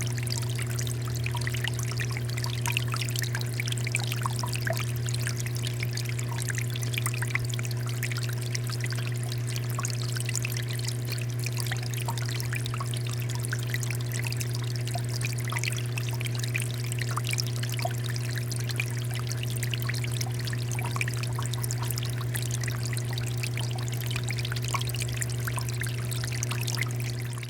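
Water fountain flowing steadily, with a steady low hum underneath.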